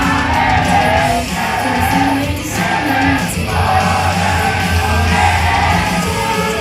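Loud idol-pop song with a rock-style backing and a voice singing over it, played through a PA at a live performance.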